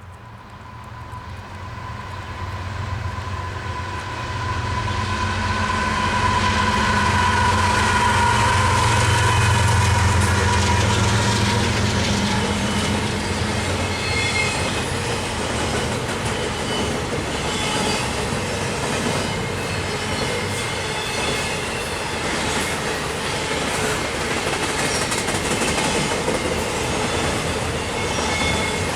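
CN intermodal double-stack freight train passing at speed. The diesel locomotives' low rumble builds over the first several seconds and is loudest about a third of the way in. The stack cars then roll by with a steady rumble, rhythmic wheel clicks over the rail joints and a high wheel squeal now and then.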